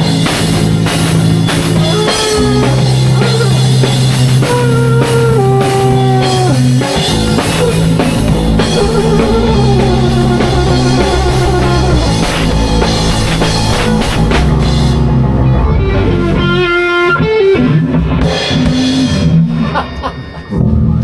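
Live rock band jamming: drum kit, held bass notes and an electric guitar bending notes. The drums thin out about three-quarters through and the piece winds down, ending on a final hit near the end.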